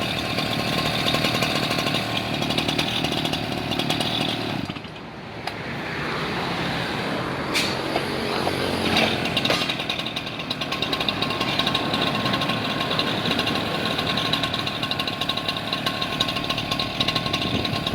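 STIHL TS410 cut-off saw's 66.7 cc two-stroke engine running at high revs, dropping off briefly about five seconds in and then revving back up and running on.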